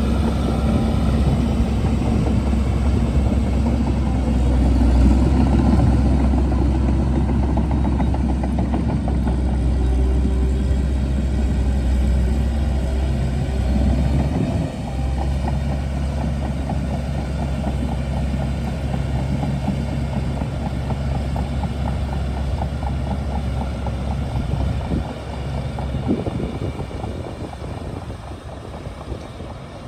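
Shantui DH17C2 bulldozer's diesel engine running with a steady low drone; the engine note drops and eases off about halfway through.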